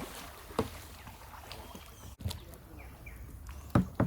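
Canoe paddling: three sudden paddle strokes, about a second and a half apart.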